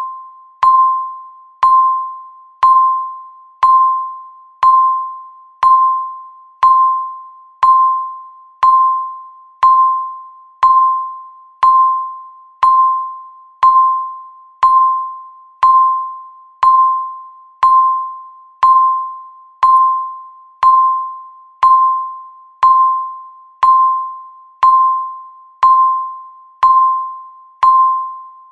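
Countdown timer ticking: a short, ringing electronic ping that fades away, repeated steadily once a second.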